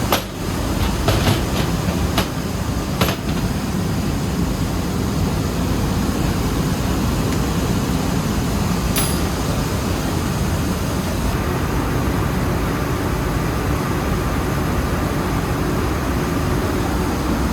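Rice mill machinery running with a steady, loud, low noise. A few sharp knocks come in the first three seconds, and one more about nine seconds in.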